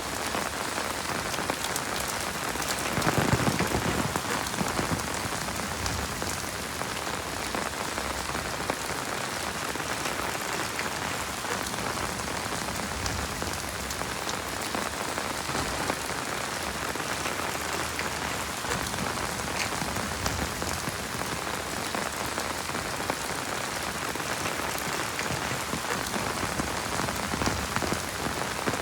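Heavy rain falling and pattering on surfaces in a dense, steady hiss, briefly swelling louder about three seconds in.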